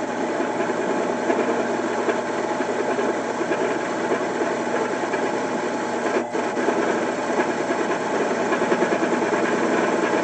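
Small benchtop drill press running steadily at about 620 rpm with a large bit, its motor and spindle humming as the bit cuts into steel pipe. The sound dips briefly about six seconds in.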